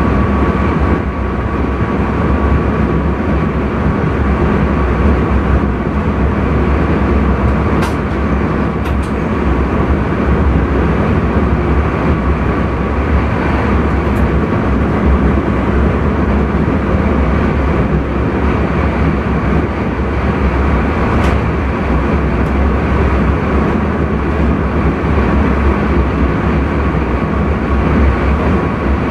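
Intercity train running, heard from inside the driver's cab: a steady rumble of wheels on rails with a faint steady high hum, and a few short clicks now and then.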